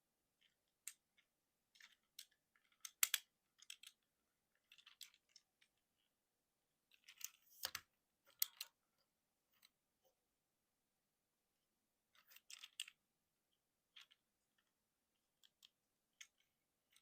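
Plastic parts of a Transformers Legacy United Motormaster action figure clicking and snapping as they are handled and folded during a transformation to truck mode. The clicks come in short clusters, the loudest a sharp pair about three seconds in and another snap about eight seconds in.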